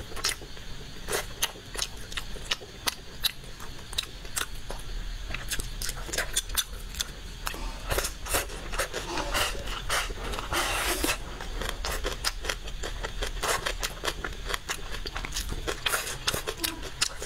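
Close-miked eating: wet chewing and lip smacks as braised meat is chewed, a steady run of sharp clicks several times a second.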